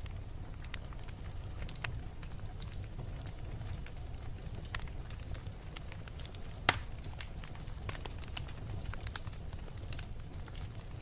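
Wood logs burning in a fireplace: a steady low rumble of flame with scattered crackles and small pops, and one sharp, louder pop a little past the middle.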